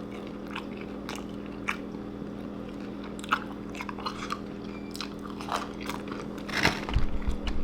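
Someone biting and chewing crinkle-cut fries: scattered small crunches, growing denser near the end, over a steady low hum.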